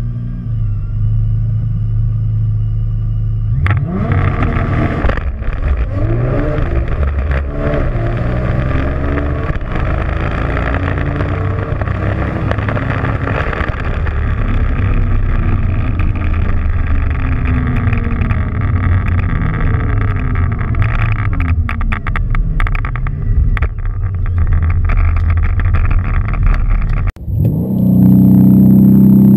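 Heavily tuned Nissan GT-R's twin-turbo V6 holding steady revs at a standstill, then launching at full throttle about four seconds in, heard from inside the cabin. The revs climb and drop back again and again with quick gear changes through a long pull to high speed. Near the end it cuts to a Mercedes C63 AMG's V8 held at steady high revs on launch control, ready for a race start.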